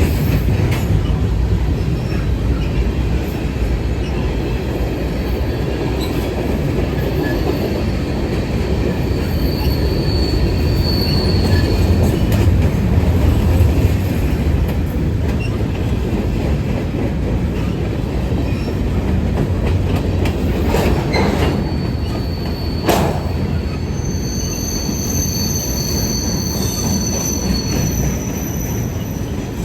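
A train rolling past on the track, a steady heavy rumble of wheels and cars, with thin high wheel squeals twice and a couple of sharp clacks from the rails.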